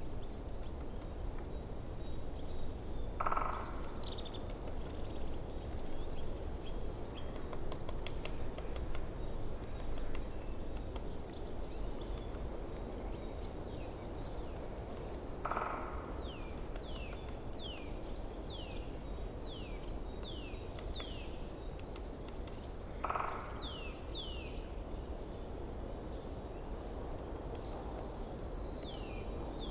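A forest stream running steadily, with small birds singing over it. There are high, quick falling chirps, in a fast series during the second half, and a short lower call three times.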